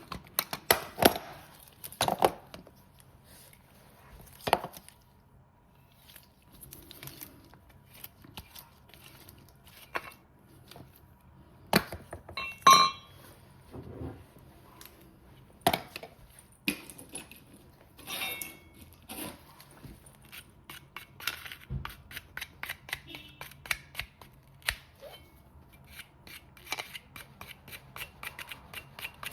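Hand tools and metal fittings clinking and knocking during work on a furnace gas valve and its gas piping: scattered sharp knocks, one ringing metal clink about thirteen seconds in, and a quick run of small ticks near the end.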